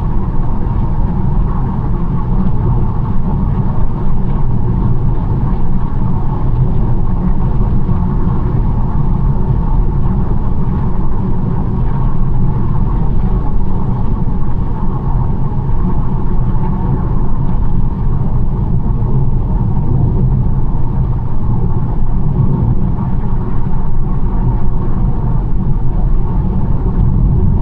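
BMW 1 Series car driving at an even pace: a steady low rumble of engine and tyre noise on the road.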